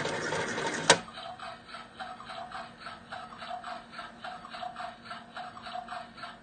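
Toy washing machine's small motor running until a sharp click about a second in cuts it off, followed by a faint, even ticking at about four a second.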